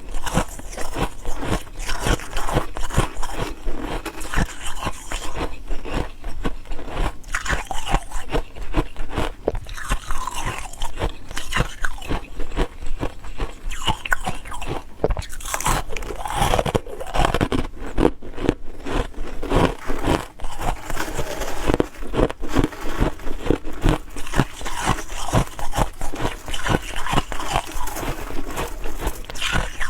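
Ice cubes being bitten and chewed close to the microphone: dense, rapid, irregular crunching that goes on without a break.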